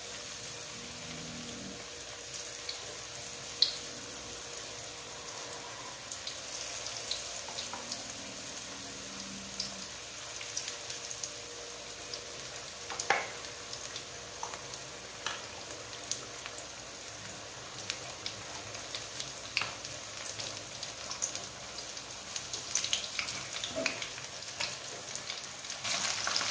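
Battered banana pieces deep-frying in hot oil in a wok over a low flame: a steady sizzle with scattered pops and crackles as more pieces go in, growing louder near the end.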